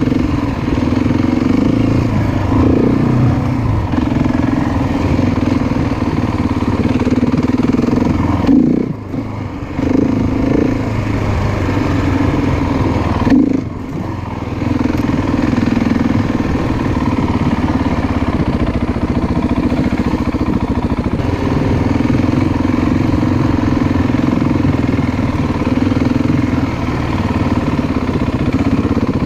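Off-road motorcycle engine running under throttle as the bike is ridden. The engine note rises and falls with the throttle, with two brief drops in level about nine and fourteen seconds in.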